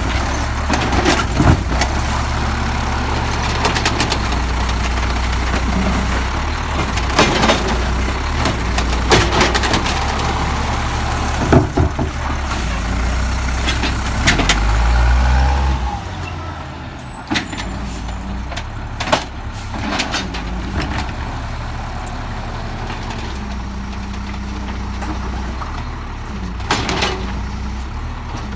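Peterbilt 320 automated side-loader garbage truck's diesel engine running, with scattered knocks and clanks from the truck. The engine revs up and grows louder for a couple of seconds just past halfway, then drops back to a lower, steady idle.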